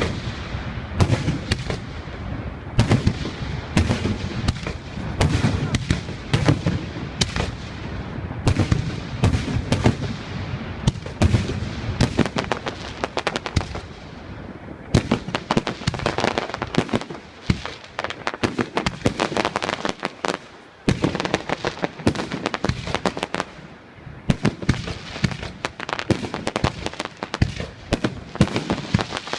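A fireworks display: a rapid, unbroken run of bangs and crackling from bursting shells, with deep booms through the first half and denser crackling after about fifteen seconds in.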